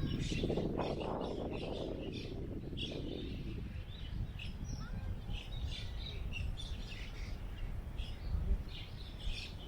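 Park ambience: small birds giving many short chirps, over a steady low rumble of wind. A louder swell of wind noise rises in the first two seconds, then fades.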